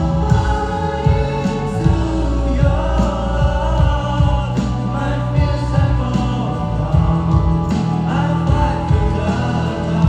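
Live band playing a song with drums and sustained chords, with singing over it.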